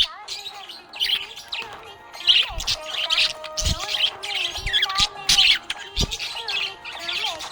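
Budgerigar chirping in many short, quick calls, with background music of held notes beneath and a few soft low thumps.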